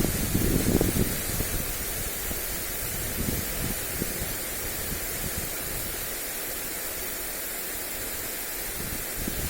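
Lawn sprinkler spraying water onto grass, a steady hiss, with wind buffeting the microphone in gusts that are strongest in the first second and die down after about six seconds.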